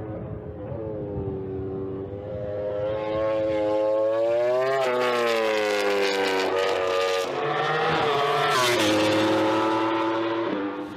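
Suzuki GSX-RR's 1000cc inline-four MotoGP engine running hard on track. Its pitch climbs steadily and drops sharply about five seconds in, rises and falls again a couple of seconds later, then holds before cutting off near the end.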